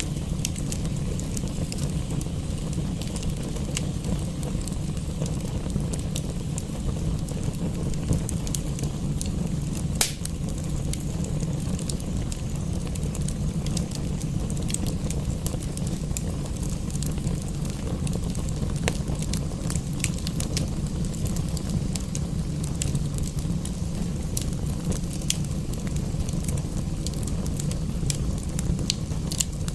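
Wood fire crackling, with scattered pops and one sharper pop about ten seconds in, over a steady low rumble.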